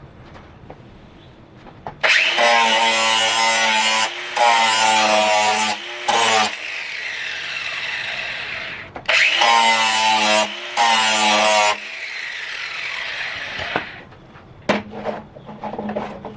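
Angle grinder grinding the edge of a steel blade in sharpening passes: two bouts of loud grinding, about two and nine seconds in, each broken into two or three passes of a second or so, with the motor whirring between them and winding down. A sharp knock and some clatter near the end.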